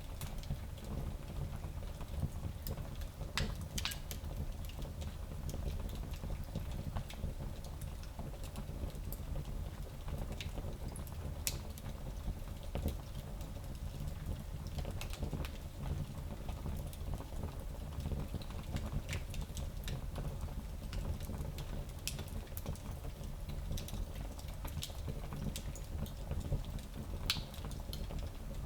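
Wood fire in a small fireplace crackling, with irregular sharp pops and snaps over a low, steady rumble.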